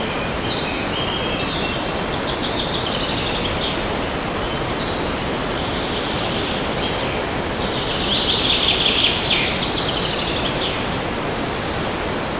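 Steady wind noise with birds singing over it in rapid trills and chirps, the singing loudest about eight to nine seconds in.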